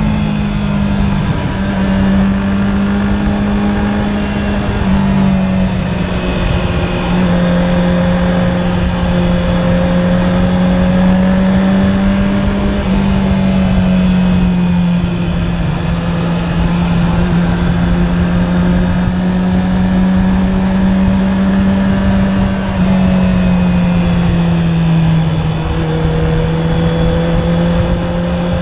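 Honda CB650R's inline-four engine through an Akrapovic exhaust, running at a steady, even pitch under way. The pitch steps down slightly a few times and up once.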